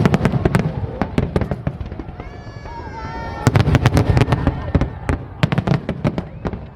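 Fireworks display: rapid, dense bangs and crackles of bursting shells, easing off for a moment near the middle and picking up again thickly about three and a half seconds in.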